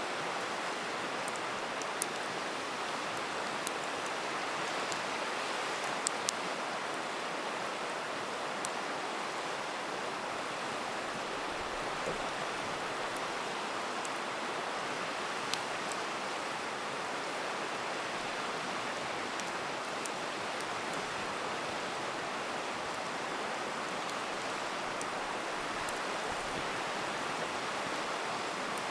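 Steady rushing of a river, with a campfire crackling over it in a few sharp pops scattered through, two of them close together about six seconds in.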